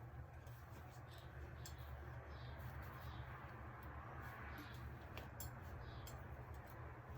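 Faint room tone: a steady low hum with scattered light ticks and clicks.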